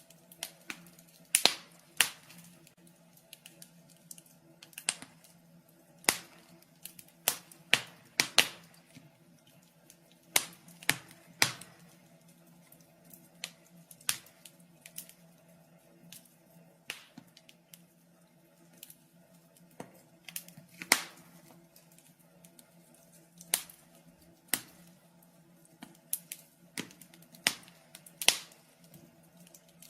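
Wood fire burning in a fireplace, crackling with irregular sharp pops and snaps, some much louder than others, over a faint steady hum.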